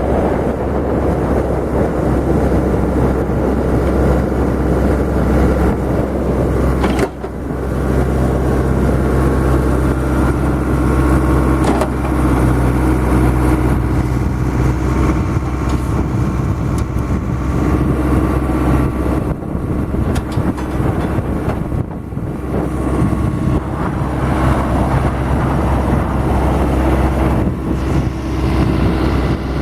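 New Holland LB75 backhoe loader's diesel engine running steadily, with a brief dip about a quarter of the way in and some unsteadiness in its note past the middle.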